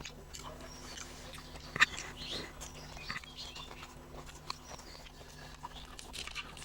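A person chewing a rice-and-fish meal, with wet mouth clicks and smacks and one sharper click about two seconds in. A faint steady low hum runs underneath.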